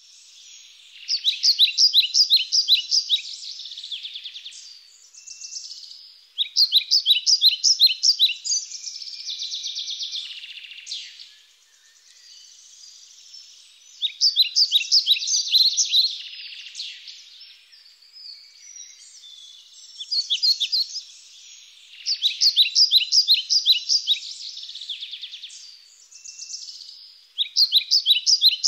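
Birdsong: rapid runs of high chirping notes in phrases a few seconds long, repeated every six seconds or so.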